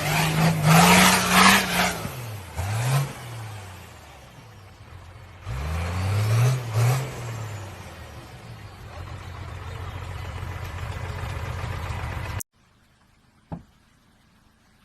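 A motor vehicle engine revving up and down several times, then again sharply about five seconds in, and running steadily after that. It cuts off abruptly about twelve seconds in, leaving near silence with one faint click.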